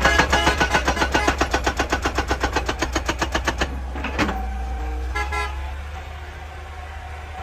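Excavator-mounted hydraulic rock breaker hammering, about eight blows a second, stopping a little over halfway, then a brief second burst of blows. The excavator's engine hums steadily underneath.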